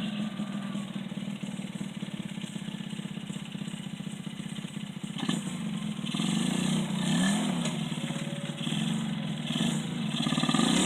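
Motocross dirt bike engine running and revving up and down, with its pitch rising and falling about six to seven seconds in and the loudest revs near the end.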